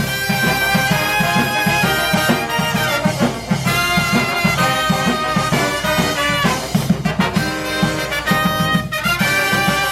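Live brass band playing an upbeat tune: horns carrying the melody over a steady, pulsing bass line.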